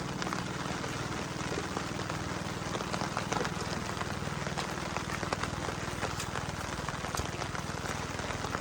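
Steady rain falling, with many small drop impacts ticking on nearby surfaces over an even hiss, and a steady low rumble underneath.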